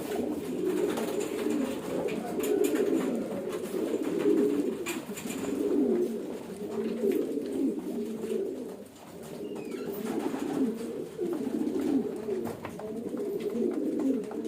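A flock of homing pigeons cooing together in their loft: many low coos overlapping without a break, with a few faint clicks among them.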